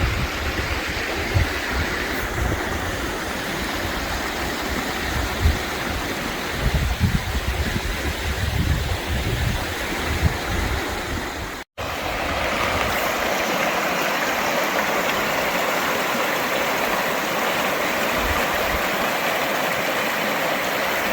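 Sheep River water rushing steadily, with low buffeting on the microphone in the first half. About halfway the sound drops out for an instant, and then the rushing water continues, steadier.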